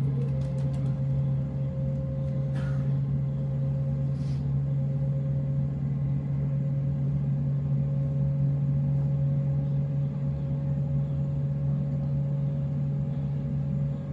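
Waratah B-set electric train running between stations, heard from inside the carriage: a steady low hum with a thin steady whine above it that comes in just after the start.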